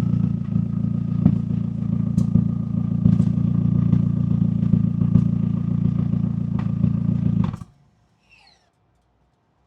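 McLaren 570S twin-turbo V8 running steadily at a constant low engine speed, its exhaust note with a few sharp clicks and pops. The sound stops abruptly about seven and a half seconds in, leaving near silence.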